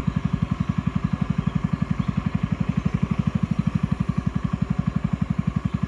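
A boat's engine running steadily, a rapid, even chugging of about fourteen beats a second.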